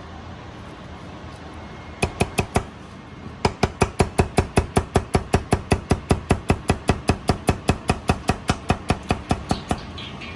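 Knife chopping on a cutting board: four quick strokes about two seconds in, then a fast, even run of about six strokes a second for some six seconds.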